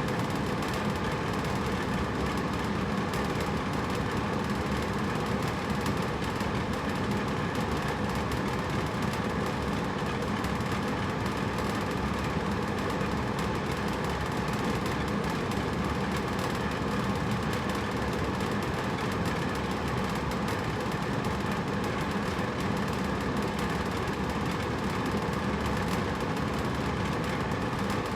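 Hotel room air conditioner running steadily: an even whooshing hum of fan and air with a few faint steady tones, no change in pitch or level.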